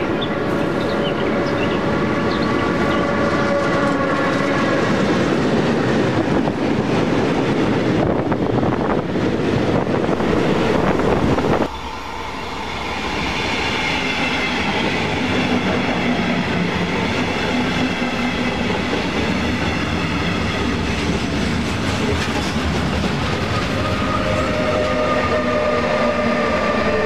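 Electric locomotive hauling a train past at speed: wheel and rail noise with a steady whine over it. About twelve seconds in, the sound cuts to a red double-deck regional train passing close with its electric locomotive, its whine falling in pitch.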